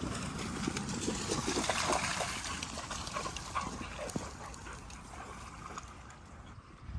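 Dogs playing in shallow dam water with scattered splashing and a brief dog whine, busier over the first few seconds, then quieter.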